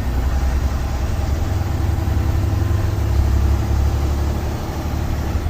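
Western Star 49X heavy truck's diesel engine running as the truck drives, a steady low rumble heard from inside the cab.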